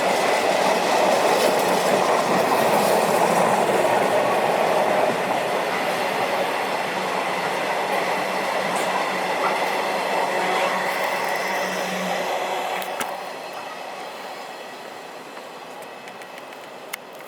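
A train passing, running loud with a steady hum, then fading away about two-thirds of the way through, with a sharp click near the end.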